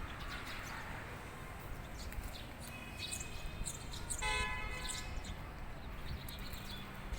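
Small birds chirping over a steady outdoor background, with one short horn-like note about four seconds in.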